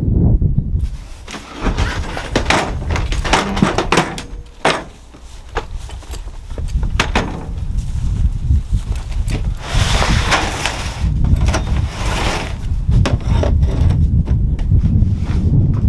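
Repeated knocks and clatters of wood- or door-like impacts over a steady low rumble, with a louder rushing stretch about two-thirds of the way through.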